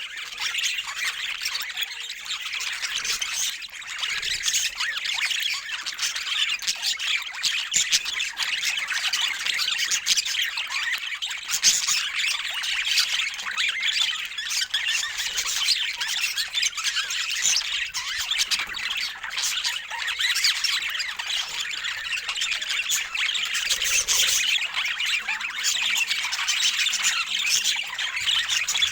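Budgerigars chattering and warbling without pause, a dense run of quick high chirps and squawks.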